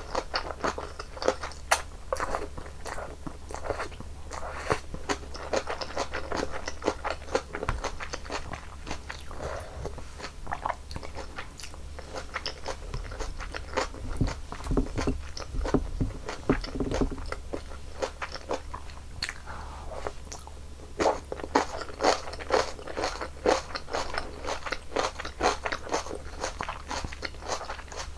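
Close-miked eating of janchi-guksu, Korean noodles in hot broth: steady chewing and biting with many small crisp mouth clicks, coming thicker in the last third.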